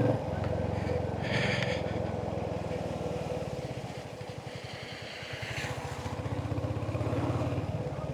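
Royal Enfield Hunter 350's single-cylinder engine running under way with a steady, evenly pulsed exhaust note. It eases off about halfway through and then pulls again.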